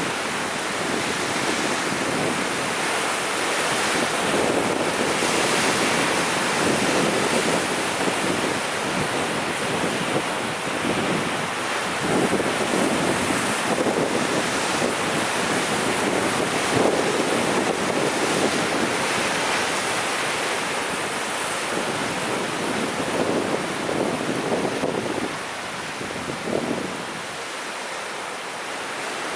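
Sea waves breaking and washing on the shore, the surf swelling and easing in turn and dropping lower near the end.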